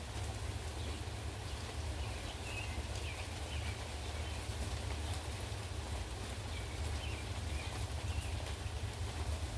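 Wind rumbling steadily on the microphone over a haze of rain, with faint bird chirps now and then.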